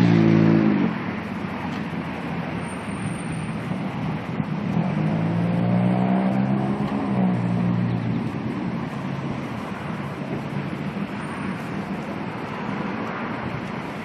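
Chevrolet Camaro ZL1's supercharged V8, loud at the very start and dropping back within the first second, then running at a lower steady note with a slow rise and fall in engine pitch about five to eight seconds in.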